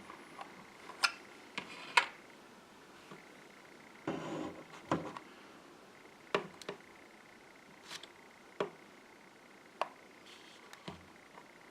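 Scattered light clicks and taps, with a short rustle about four seconds in: small plastic containers and lids being handled and opened.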